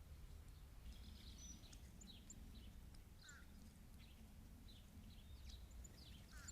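Faint chirps and calls of several small backyard birds, with a short falling call about three seconds in and again at the end, over a steady low rumble.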